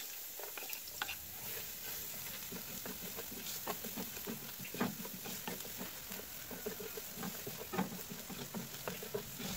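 Chopped onion and garlic sizzling steadily in hot oil in a black metal pan, stirred with a wooden spatula that knocks and scrapes against the pan now and then.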